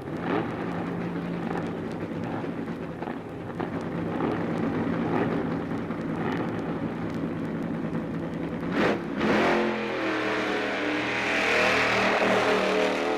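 Drag-racing car engine running at the line with short throttle blips, then a sudden loud burst of throttle about nine seconds in as it launches and revs hard.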